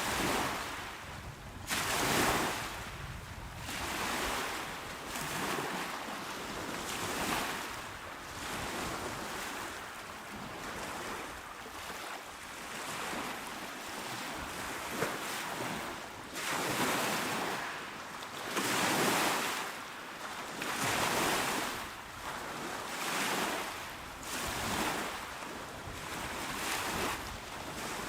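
Small sea waves washing onto a shore, each breaking wash swelling and fading every couple of seconds over a steady surf background, with some low rumble of wind on the microphone.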